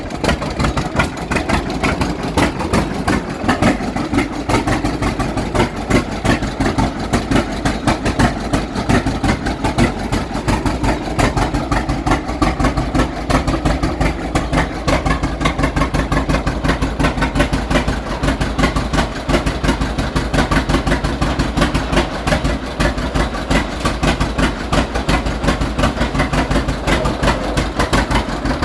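John Deere Model G tractor's big two-cylinder engine running steadily at idle, with an even beat of firing strokes.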